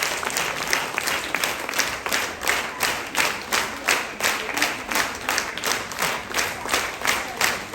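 Audience applause that settles, after about two seconds, into rhythmic clapping in unison at about three claps a second.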